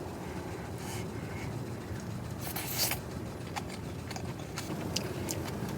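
A person biting and chewing food, with one short crunchy rasp about halfway through and a few small clicks, over a steady low rumble.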